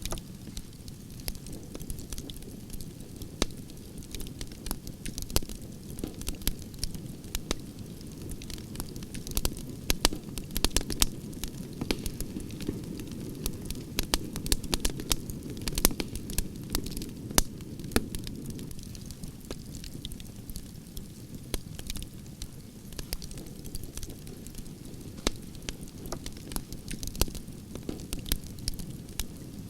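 Campfire of burning logs crackling: a steady low rumble of flames under frequent sharp pops and snaps, busiest in the middle.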